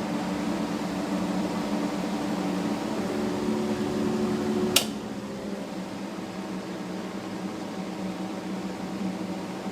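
Old Robbins and Myers exhaust fan running on high, a steady electric-motor hum with the rush of moving air, running well. A sharp click comes a little under halfway through, after which the fan runs a bit quieter and lower.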